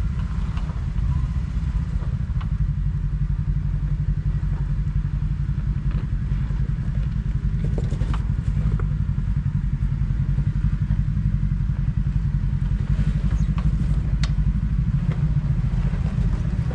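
Kawasaki KRX side-by-side's parallel-twin engine running steadily on a trail, with a few sharp clicks and bits of clatter over the drone.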